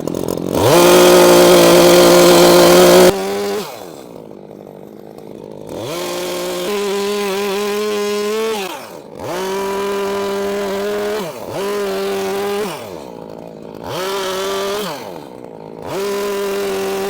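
Gas chainsaw revved to full throttle, making a swoop cut into a log in its first and loudest burst of about three seconds. It then drops to idle and is revved again in about five shorter bursts.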